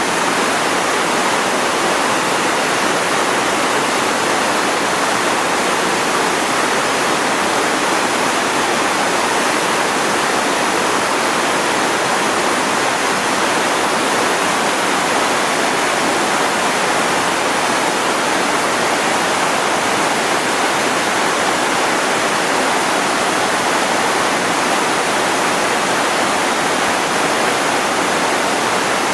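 Senga-taki waterfall: falling water in a steady, unbroken rush, with little deep rumble.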